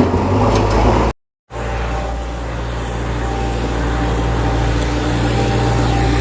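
Steady low engine drone of a heavy vehicle, cutting out completely for a moment about a second in and then running on evenly.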